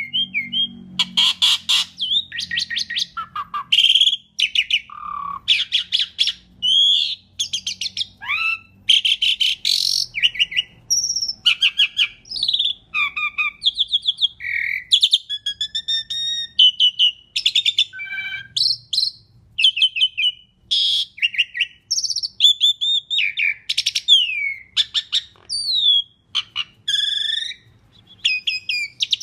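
Asian pied starling (jalak suren) singing a long, varied song: whistles, fast chattering rattles and sliding notes, one phrase after another with hardly a pause.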